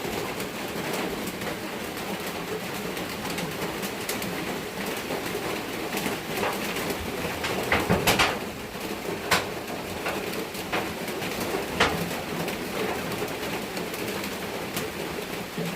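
Doves cooing over a steady hiss, with a few sharp knocks between about six and twelve seconds in, the loudest a quick cluster around eight seconds.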